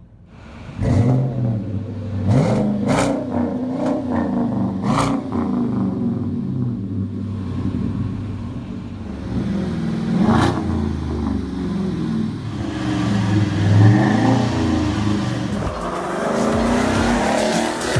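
Flowmaster true dual exhaust on a 2018 Chevrolet 1500 Z71 pickup, coming in sharply about a second in, then revving with the pitch rising and falling, along with a few sharp cracks.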